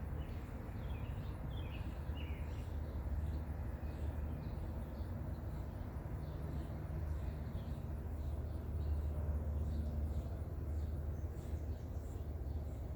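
Birds chirping faintly in the background, short high chirps that come most often in the first few seconds, over a steady low rumble.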